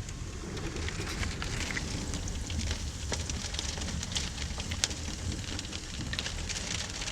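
Strong wind rumbling and buffeting the microphone, with scattered sharp ticks throughout.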